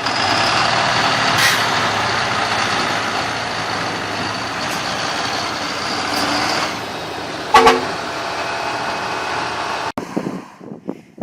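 Heavy truck engine running steadily, with a short horn toot a little past halfway. Near the end the sound cuts abruptly to gusty wind on the microphone.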